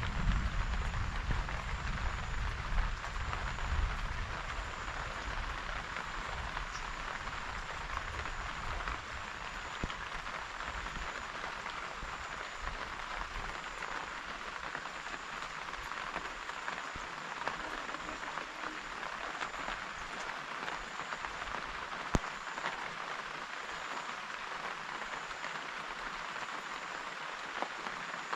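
Steady rain falling, an even hiss with occasional single drop ticks. A low rumble under it in the first few seconds dies away.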